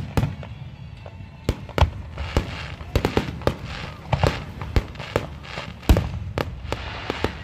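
Aerial firework shells bursting in quick succession, a rapid run of sharp booms and bangs with the loudest about two seconds in and again near six seconds.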